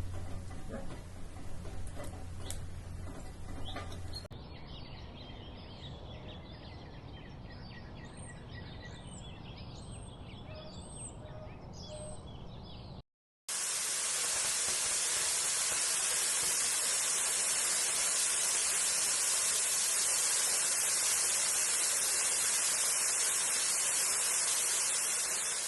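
Small birds chirping in a quick series of short, high calls over a background hum. After a sudden cut, a steady loud rushing hiss follows.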